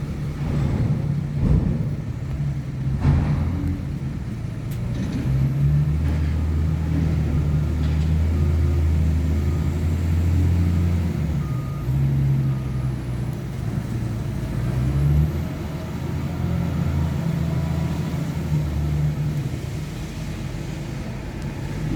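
Heavy truck engine running steadily at low revs, its hum shifting in pitch a few times. Two sharp knocks come in the first few seconds.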